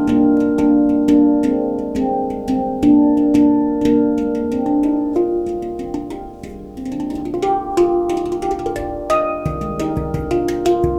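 Handpan played in a quick flow of struck notes that ring on and overlap. The music softens about six seconds in, and deeper low notes come back near the end.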